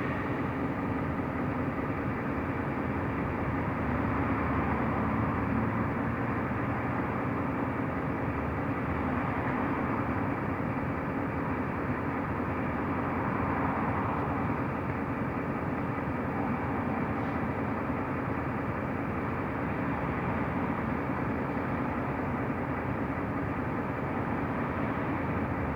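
Mercedes-Benz O345 Conecto LF city bus driving, heard from inside the cabin: steady engine drone and road noise, rising and falling slightly with speed.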